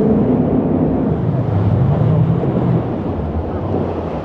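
Jet boat under way: the engine runs hard over rushing water and wind on the microphone. The engine pitch wavers up and down midway, and the sound eases off about three seconds in.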